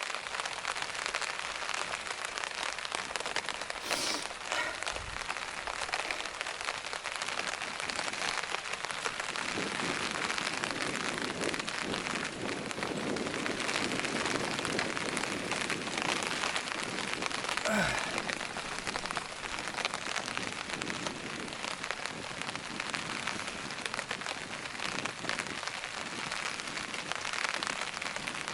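Steady rain falling, an even hiss of drops that holds throughout.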